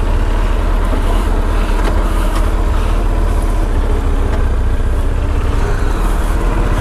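Motorcycle engine idling steadily, a low rumble of regular firing pulses.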